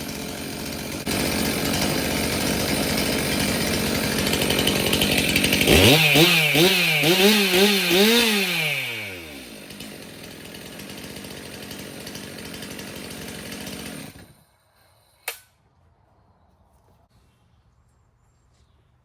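Stihl MS362 M-Tronic chainsaw's two-stroke engine running at speed, blipped up and down several times, then dropping to a steady idle before being shut off. This is the test run after a new M-Tronic fuel solenoid was fitted, and the saw runs pretty good. A single click follows the shutdown.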